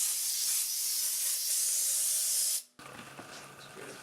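Steady hiss of a spray gun, cutting off abruptly about two and a half seconds in, with a faint steady hum underneath.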